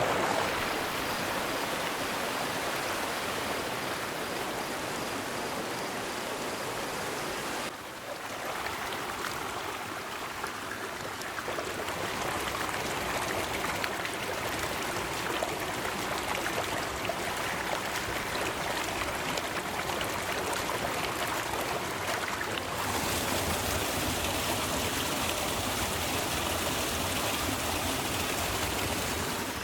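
River water running in a steady rush, with a hint of trickling and gurgling. Its tone and level change suddenly twice, about 8 seconds in and again near 23 seconds.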